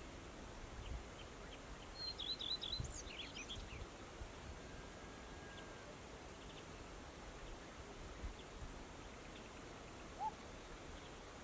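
A songbird gives a short, quick jumble of high notes about two seconds in, with a few faint high ticks and calls scattered through the rest and a single short rising note near the end. Low buffeting from wind on the microphone runs underneath.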